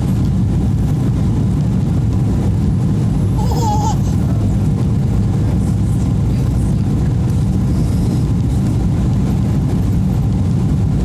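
Steady low rumble of cabin noise inside a Boeing 777-300 airliner: engine and airflow noise at an even level. A brief high wavering cry sounds about three and a half seconds in.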